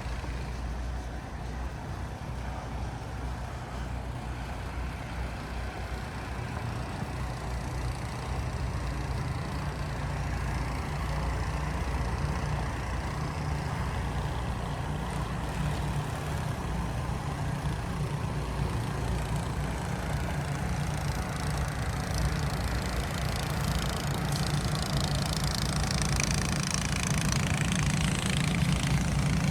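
A vehicle engine running at idle: a steady low hum that grows louder toward the end, with a rising hiss over it in the last few seconds.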